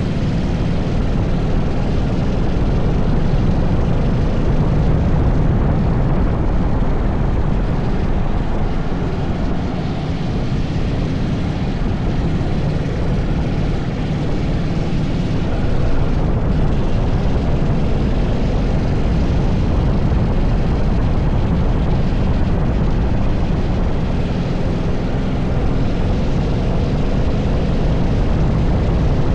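80cc go-kart engine running under load, its pitch wavering up and down with the throttle, heard through heavy wind rumble on the onboard microphone.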